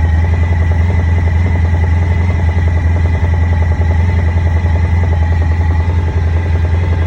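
Honda ST1100's V4 engine idling steadily, with the knock on the right side of the engine that the recording is made to show.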